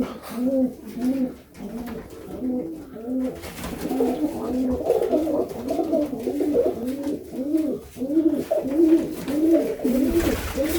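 Domestic pigeons (Serbian Highflyers) cooing, several birds overlapping in a continuous run of rising-and-falling coos. The cooing grows busier after the first few seconds.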